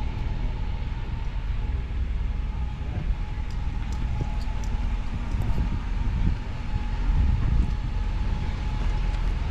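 Chevy stepside pickup driving: a steady low engine and road rumble with a faint steady whine.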